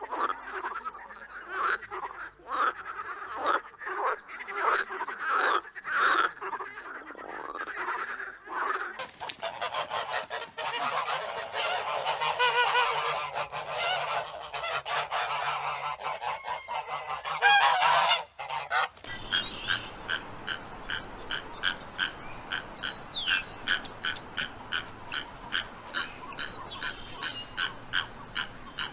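Animal calls in three stretches: repeated separate honking calls, then a dense chorus of many overlapping calls from about nine seconds in, then fast, evenly spaced pulsing calls with occasional higher chirps from about nineteen seconds in.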